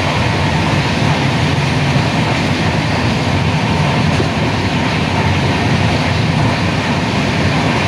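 Passenger train running at speed, heard from inside a coach at an open window: a loud, steady rush of wheels on rail and passing air.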